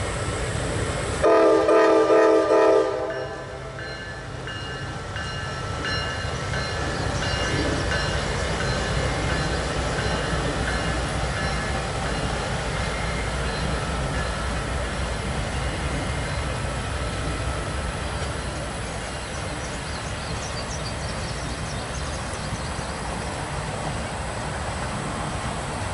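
Nathan Airchime K5LA locomotive horn sounding a few quick blasts about a second in, a multi-note chord. Then the steady rumble and clatter of a double-stack freight train rolling across a bridge.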